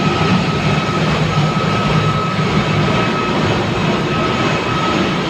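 Ship's engine-room machinery running, a loud steady din: a low drone with a thin, steady high whine on top.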